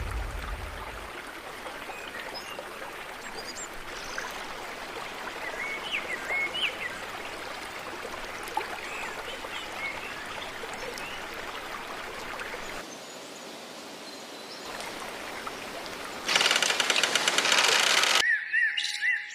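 River water flowing in a steady rush, with a few small bird chirps over it. It grows louder for about two seconds near the end, then cuts suddenly to music with bird-like chirps.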